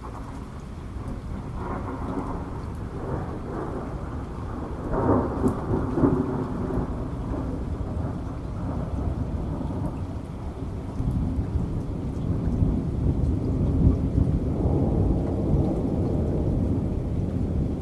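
Thunder rumbling over steady rain, swelling to a sharp loud peak about five seconds in and building again near the end.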